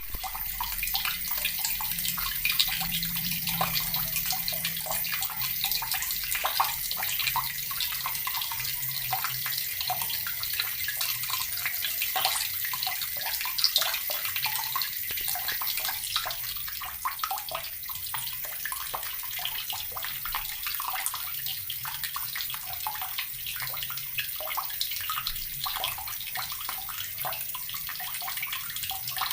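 Water running steadily from a tap and splashing into a basin below, with many small spatters.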